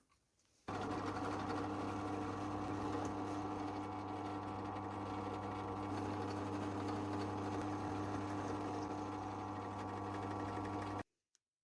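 Electric power tool motor running at a steady speed, starting suddenly about a second in and cutting off sharply near the end.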